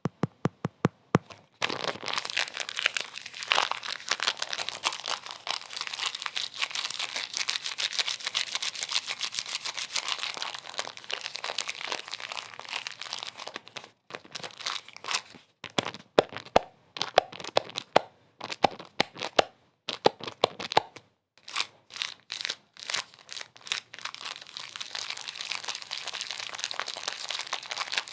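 Crinkling and crackling: a few separate sharp clicks, then a dense crackle. About halfway through it thins for several seconds into separate clicks with short silent gaps, then the dense crackle returns.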